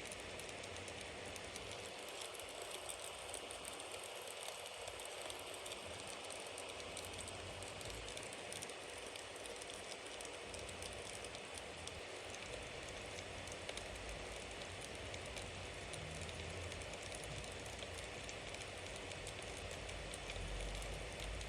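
Bonfire burning: a steady hiss of flames with many small crackles and pops of burning wood, and a low rumble that grows a little near the end.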